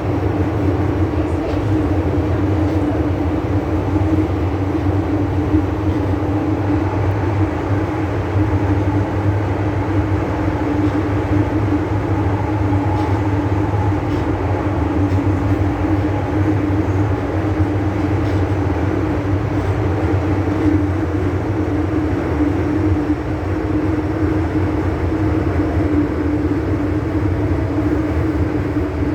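MTR M-Train electric multiple unit running steadily, heard from on board: a constant rumble of wheels on rail with an unchanging low hum.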